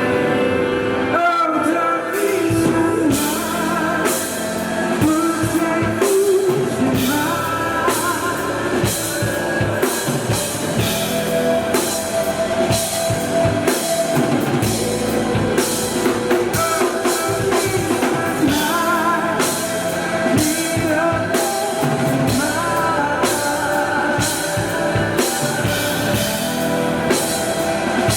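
Live rock band playing a song: a singer's voice over drum kit and guitar.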